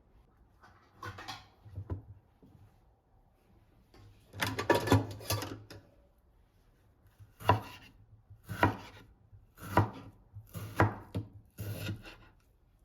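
Kitchen food preparation on a wooden board: a longer scraping stretch, then five short strokes about a second apart.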